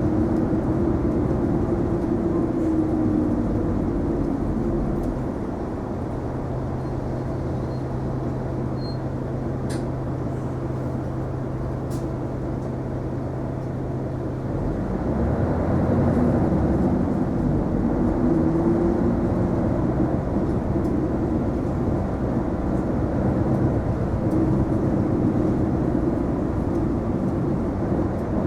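Isuzu Erga non-step city bus heard from inside the cabin, its engine and drivetrain running: the engine tone falls in the first few seconds, holds a quieter steady note from about 5 to 15 s, then grows louder and rises again as the bus accelerates. Two faint clicks come near the middle.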